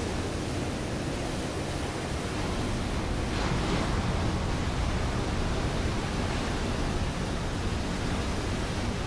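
Ocean waves breaking on a rocky shore: a steady rush of surf, with one wave washing in a little louder about three seconds in.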